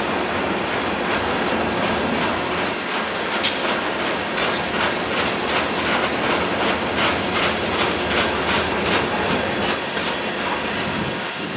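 Freight train cars rolling past at track side: a steady rumble of steel wheels on rail, with the wheels clicking over rail joints a few times a second through the middle, easing off near the end.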